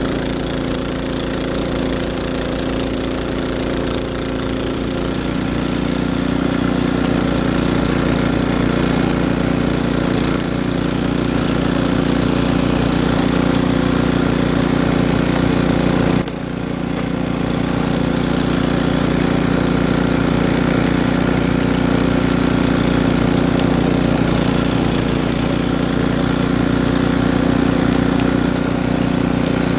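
Snowblower engine running steadily, its sound filling out about five seconds in and dipping briefly about halfway through.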